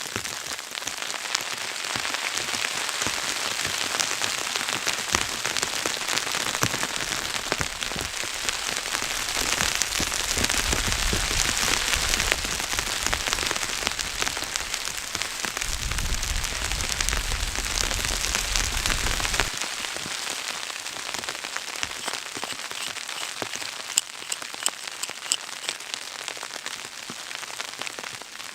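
Steady patter of wind-driven precipitation, many fine ticks over a constant hiss. There are two stretches of low wind rumble on the microphone in the middle, the second cutting off suddenly.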